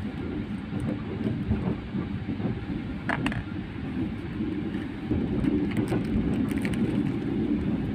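A moving train's running noise heard inside the carriage: a steady low rumble with a few brief sharp clicks and squeaks, the clearest about three seconds in.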